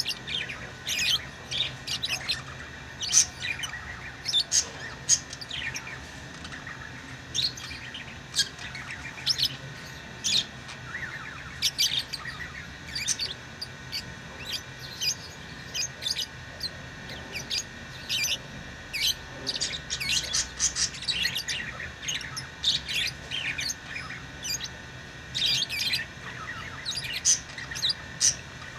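Pet lovebirds chirping, a dense run of many short, high chirps overlapping one another, with the occasional squawk.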